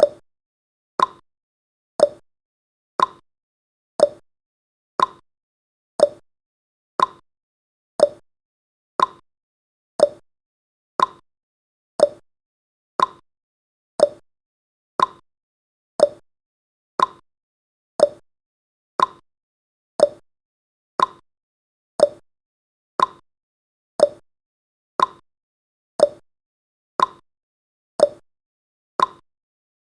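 Countdown timer's tick sound effect: one short, sharp tick every second, with silence between.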